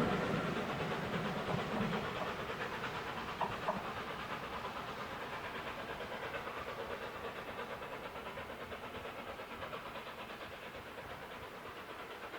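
A steam-hauled train receding after passing, its running noise fading steadily away. Two brief sharp sounds come about three and a half seconds in.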